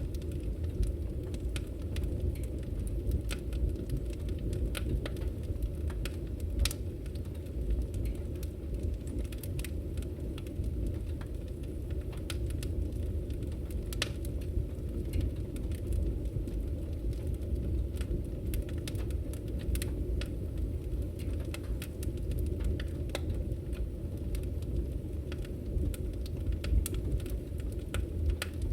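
Firewood burning in a Victory Camp Taiga wood stove: many irregular sharp crackles over a steady low rumble of the fire.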